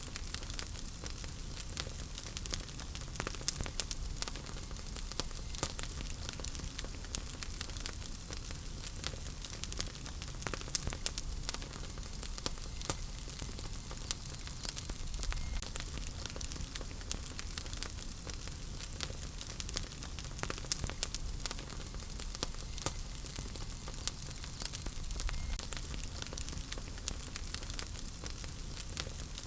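Wood fire burning in a fireplace, crackling steadily with many small sharp pops over a soft hiss and low rumble.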